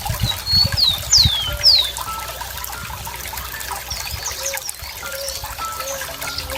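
A stream of water trickling and gurgling steadily while birds sing over it. Several quick falling whistles come in the first two seconds, then shorter chirps, with a soft low note repeating about every second in the latter half.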